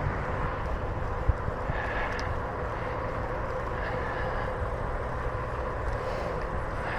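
Steady wind rush over the microphone and hum of bicycle tyres rolling on smooth pavement, with faint brief high sounds about two and four seconds in.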